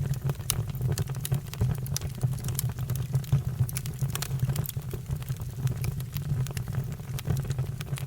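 Fire crackling, with many irregular sharp pops and snaps over a steady low rumble.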